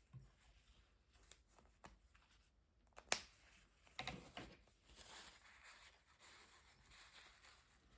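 Quiet sounds of colouring with water-based brush markers on watercolour paper: a few sharp clicks, the loudest about three seconds in, then a soft scratchy brushing of marker tips on paper from about five seconds on.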